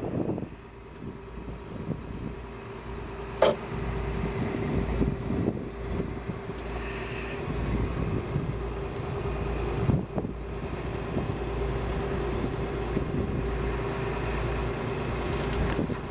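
Wind buffeting the microphone on a sailing boat, over a steady hum. There are two sharp knocks, one about three seconds in and one about ten seconds in.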